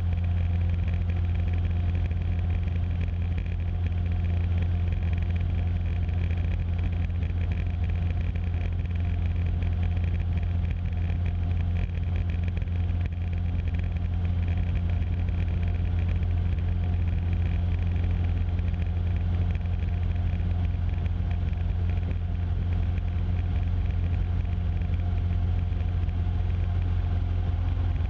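Cessna 150's four-cylinder Continental O-200 engine and propeller running steadily in flight, a constant low hum heard inside the cockpit through the aviation intercom audio feed, with no change in power.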